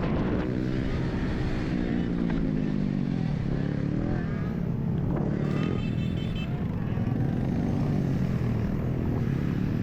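Motorcycle engines in a group ride revving, their pitch rising and falling, over a steady low rumble. A short high-pitched tone sounds about halfway through.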